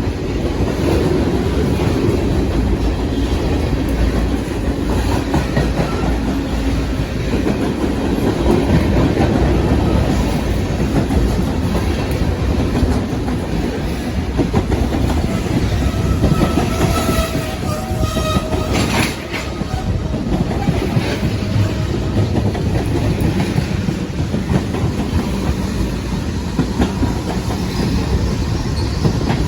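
Railroad cars of a passing train rolling by close up, a steady rumble with wheels clicking over rail joints. About two-thirds of the way through, a brief high tone rises above the rumble for a couple of seconds.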